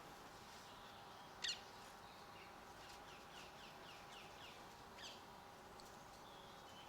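Garden birds calling: one loud, sharp call sweeping down in pitch about a second and a half in, then a quick run of short falling chirps, and another sharp call a few seconds later.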